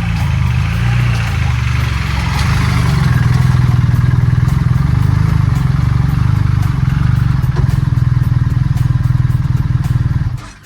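A BMW GS Adventure's boxer-twin engine running loud and steady, with a rise in level a few seconds in, then shut off suddenly near the end.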